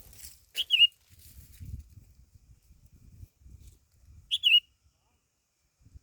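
A short, sharp chirping call, a quick dipping-then-rising double note, heard twice about four seconds apart over a faint low rumble.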